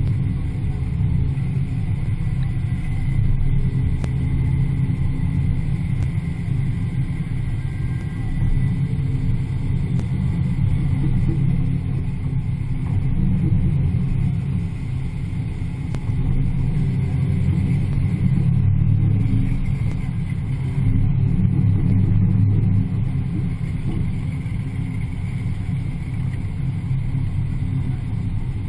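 Muscle car engine running under steady driving throttle, picked up close through the hood with wind rush; a low drone that swells and eases several times as the throttle changes.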